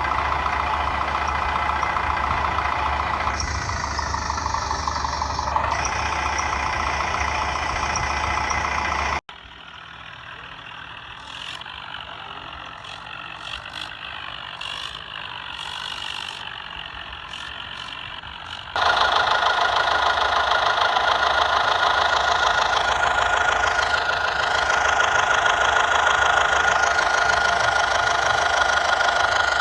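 A motor running steadily, in three spliced segments. It cuts abruptly to a much quieter stretch about nine seconds in and jumps back to full loudness, with a strong steady whine, about nineteen seconds in.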